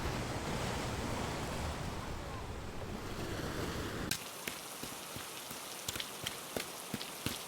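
Rain sound effect: a steady rush of heavy rain and wind for about four seconds, then an abrupt switch to scattered raindrops ticking on a car roof, heard from inside the car.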